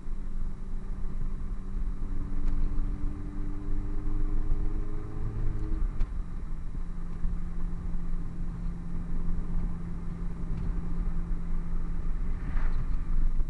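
Hartge MINI with a Hayward & Scott exhaust running under way, a steady low engine and exhaust drone. Its pitch creeps slowly up, then drops to a lower steady note about six seconds in.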